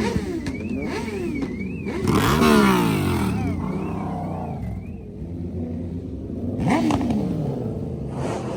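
Car engines revving in repeated blips, their pitch sweeping up and falling back, loudest about two seconds in and again near seven seconds. A thin, high warbling tone rises and falls evenly for the first few seconds.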